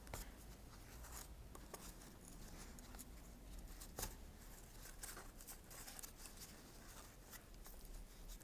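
Faint rustling and small scattered taps of cord and corrugated cardboard being handled while a knot is tied, with one sharper tap about four seconds in.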